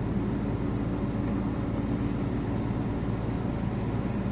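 Heavy truck's diesel engine and road noise heard from inside the cab while driving: a steady low drone.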